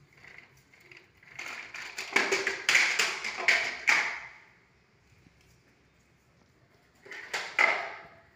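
Hard objects knocking and clattering together in two bursts: a run of sharp knocks for a couple of seconds, then a shorter cluster near the end.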